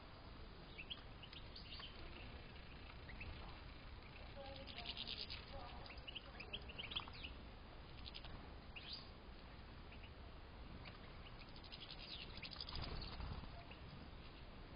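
European goldfinches chirping and twittering in an aviary: faint, scattered short calls and quick notes, busiest about five seconds in and again near the end.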